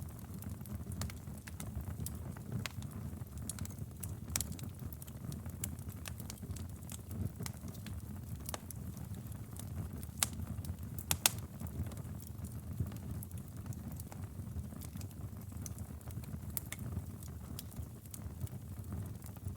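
Wood fire burning: a steady low rumble of flames with scattered sharp crackles and pops, two of them louder about ten and eleven seconds in.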